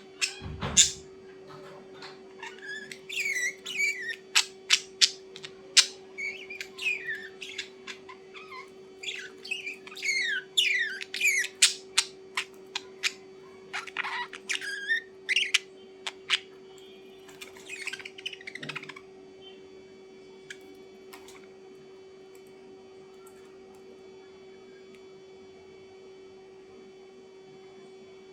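A bird calling in quick runs of short, sharp chirps and squawks that drop in pitch, with pauses between the runs; the calling stops about two-thirds of the way through, leaving a steady low hum.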